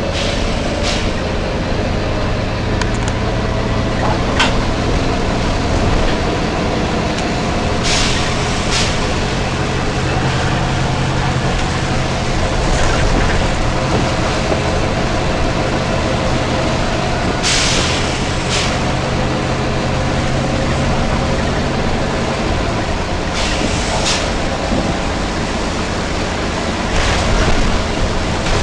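Volvo B9TL double-deck bus's diesel engine running steadily, with about eight short hisses of compressed air released from the bus's air system; the longest comes just past halfway.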